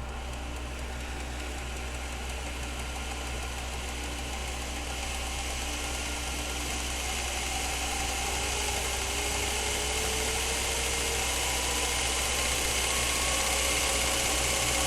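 A belt grinder running steadily, its motor hum and belt noise slowly rising in pitch and growing gradually louder.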